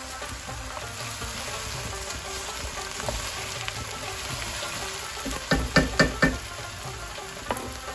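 Chopped okra sizzling in hot oil in a pot while a wooden spoon stirs it. About two-thirds of the way through comes a quick run of four sharp knocks, the loudest sounds here, as the spoon strikes the pot, and one lighter knock near the end.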